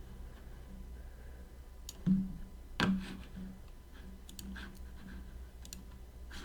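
Scattered computer clicks of a mouse and keyboard, with two louder knocks about two and three seconds in, over a low steady hum.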